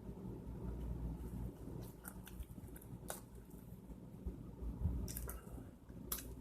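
A person chewing and biting food with the mouth close to the microphone, with several short wet clicks and smacks, the sharpest near the middle and near the end, over a low steady hum.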